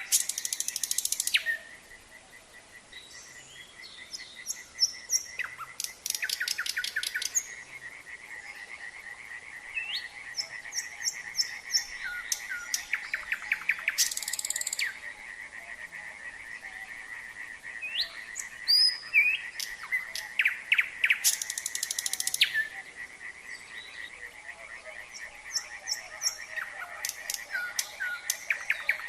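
A nightingale singing in separate phrases of rapidly repeated notes, trills and clear whistles every few seconds, over a steady, fast-pulsing chorus of frogs.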